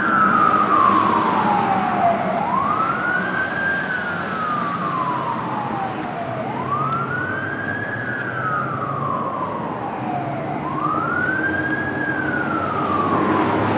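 Fire engine siren on wail: the pitch climbs quickly and then falls slowly, one cycle about every four seconds, with engine and road noise underneath.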